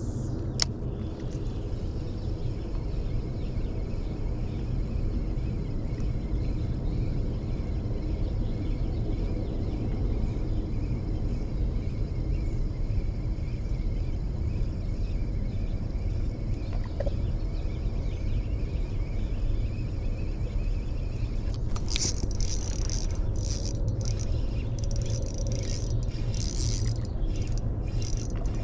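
Steady low outdoor rumble, with a faint steady high whine through most of it; about three-quarters of the way in, a run of irregular crackling and ticking starts over it.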